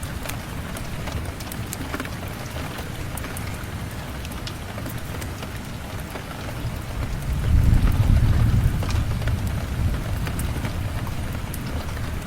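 Steady rain falling, with scattered sharp clicks throughout. A low rumble of thunder swells about seven seconds in, peaks and slowly fades.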